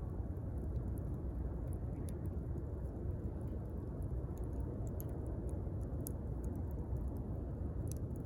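Wood bonfire crackling: scattered sharp pops and snaps, several a second at times, over a steady low rumble.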